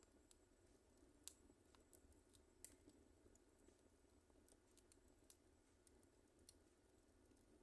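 Wood fire crackling faintly, with irregular sharp pops and snaps over a low steady hiss; the loudest pops come about a second and two and a half seconds in.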